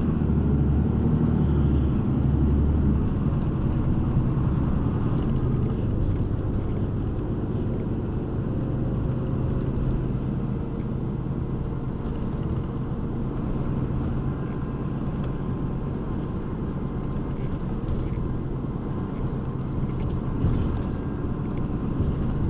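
City bus engine and road noise heard from inside the passenger cabin as the bus drives along: a steady low engine hum, a little heavier in the first few seconds, with a few small knocks near the end.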